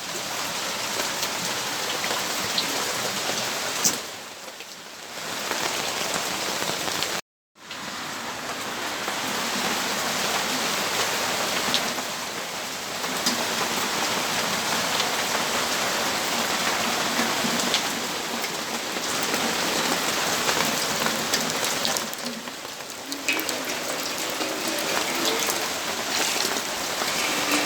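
Steady rainfall, a dense hiss of drops striking surfaces, easing slightly twice. About seven seconds in it drops out to complete silence for a moment, then resumes.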